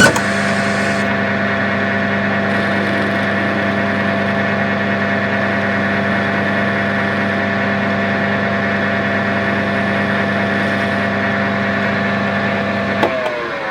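Wood lathe motor switched on with a sudden start, running at a steady speed with a steady hum, then switched off about thirteen seconds in, its pitch falling as it winds down.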